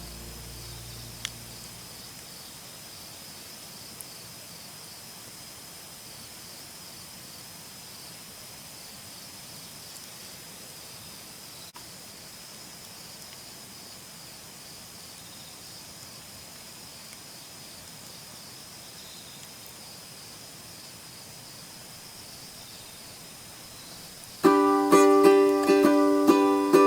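Faint, steady outdoor ambience with a high, evenly pulsing tone. About three-quarters of the way through, a ukulele starts playing plucked notes.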